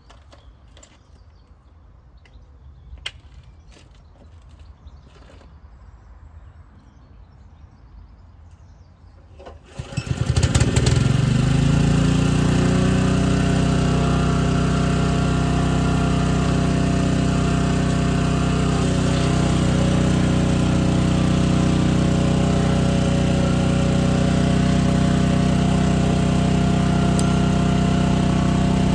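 Leyland Roadtrain T45 lorry's diesel engine cranking and catching about ten seconds in, then idling steadily. Before it starts there are only a few faint clicks.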